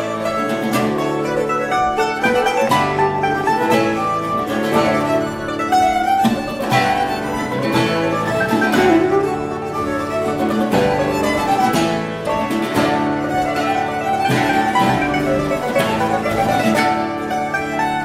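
Early Baroque chamber ensemble playing: mandolin and mandocello plucking over a bowed treble viol and harpsichord, a continuous flow of quick plucked notes over sustained bowed lines.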